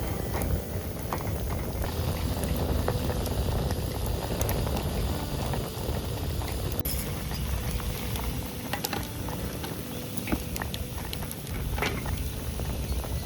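A pot bubbling over a campfire, with many small scattered pops and crackles, over a steady low rumble of wind on the microphone.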